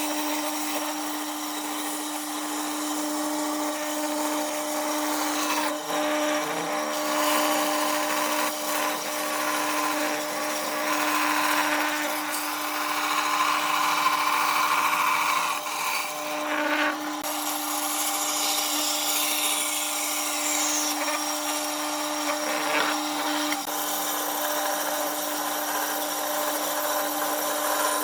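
A power tool working wood: a steady motor hum under the noisy sound of the tool cutting or abrading the wood, which rises and falls in loudness.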